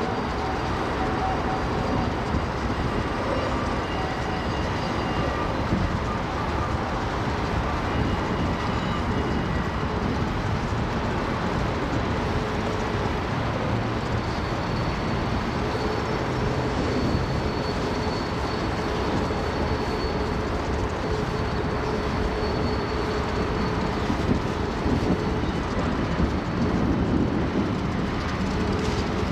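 Freight train cars rolling past at a steady speed: a continuous rumble of wheels on rail, with faint thin high tones coming and going.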